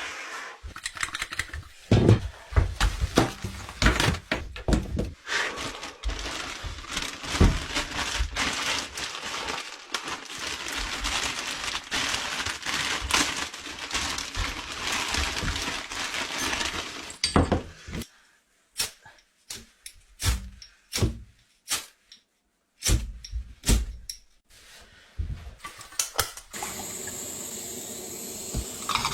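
Rustling and knocking of gear being handled in a small room, dense for most of the time, then a string of separate sharp clicks with quiet gaps between them in the last third.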